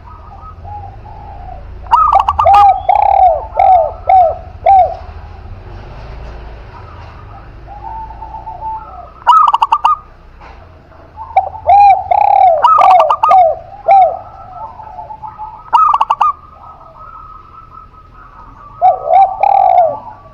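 Spotted dove and zebra dove cooing in turn. There are bursts of quick repeated coos about two seconds in, again from about nine to fourteen seconds, briefly around sixteen seconds, and once more near the end.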